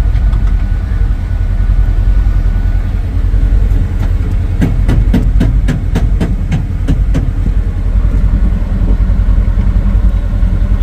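Strong wind buffeting the microphone as a heavy, fluttering low rumble, with a run of about eight sharp hammer blows between roughly four and seven seconds in.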